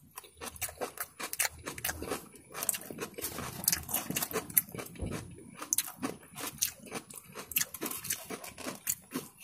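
Close-up chewing of a mouthful of coleslaw: irregular wet crunching and mouth clicks.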